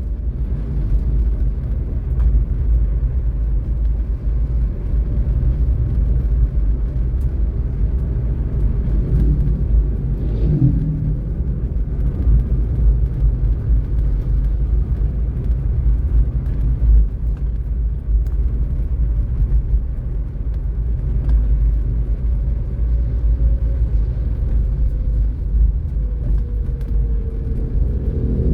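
Car driving on a city road: a steady low rumble of engine and road noise, with an engine note briefly rising and falling about ten seconds in.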